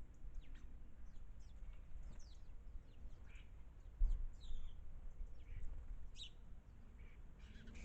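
Garden birds chirping: many short, high, quick downward-sweeping calls scattered throughout, over a low outdoor rumble with a brief low thump about four seconds in.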